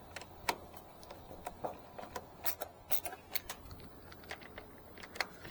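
Screwdriver turning small screws into the top of a wall charger's cover, giving light, irregular clicks and taps.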